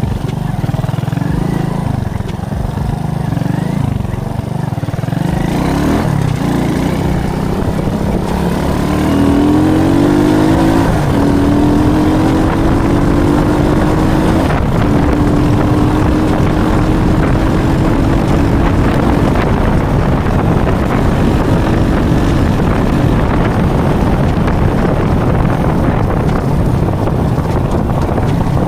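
Alpha moped's single-cylinder four-stroke engine running under way. Its note climbs about a third of the way in, breaks off briefly, then settles into a steady run at speed with rough wind and road noise underneath.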